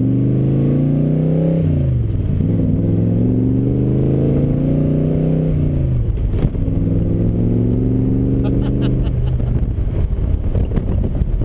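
Superformance Cobra's 392 cubic inch Roush V8 accelerating hard through the gears: the engine note climbs, drops at two upshifts and climbs again. Near the end it turns rougher and less even as the pull eases.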